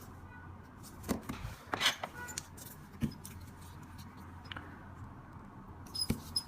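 Scattered small metallic clicks and taps from handling a Zippo lighter and its hinge during repair, a few in a row about a second in, single taps about three seconds in and near the end, some with a brief thin metallic ring.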